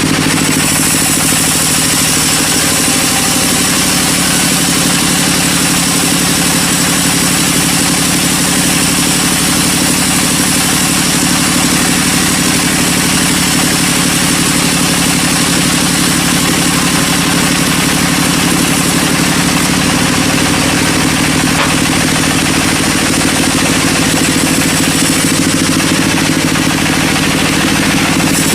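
Engine running steadily at an even speed, with a constant hiss across the highs and a faint high whine; it does not change over the whole stretch.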